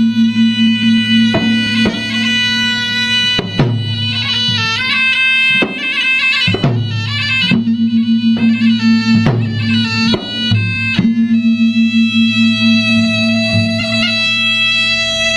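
Traditional Makassar-Bugis gendang ensemble playing: a reedy wind instrument carries a melody over a steady low drone, with sharp drum strikes every second or two.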